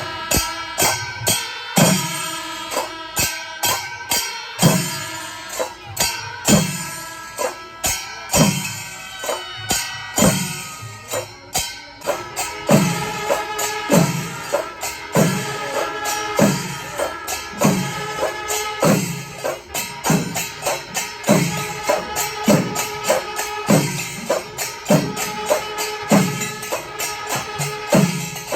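Panchari melam: a chenda ensemble beating a steady rhythm of deep strokes, with ilathalam hand cymbals clashing densely over it. The beat grows tighter about halfway through.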